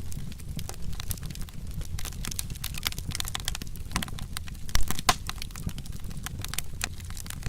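Log fire crackling with frequent small pops over a low steady rumble, with one louder pop about five seconds in.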